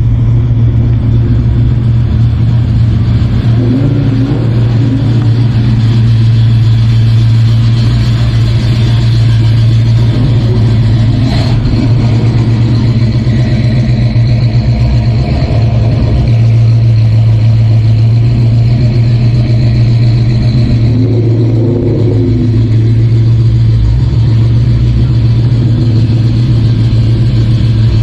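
Engine of a custom mid-1960s Chevrolet C10 pickup truck running with a steady, deep hum.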